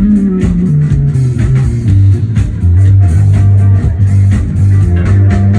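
Live band jamming with electric guitar, bass guitar and drum kit, played loud. A low line steps down in pitch over the first second and a half, then settles on held low bass notes under regular drum hits.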